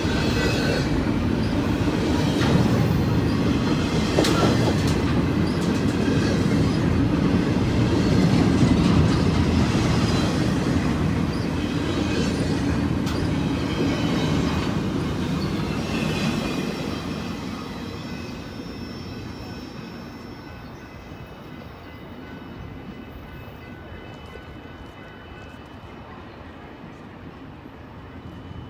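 Freight train passing close by, a dense low rumble with wheels clicking over the rail joints. After about seventeen seconds the noise fades away as the train moves off.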